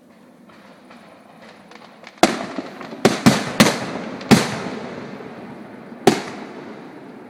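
Aerial firework shells bursting in the sky: faint crackling at first, then six sharp bangs over about four seconds, each followed by a long rolling echo that dies away.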